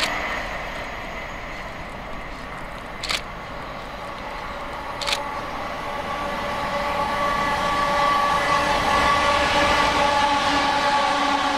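Electric train running through, a whine of several steady tones that grows louder over the second half. Two sharp clicks come about two seconds apart before it builds.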